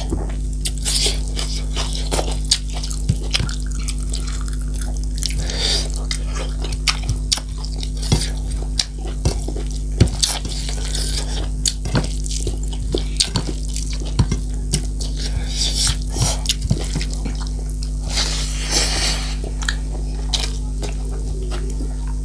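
A person eating close to the microphone: wet chewing and irregular lip-smacking clicks throughout, over a steady low hum.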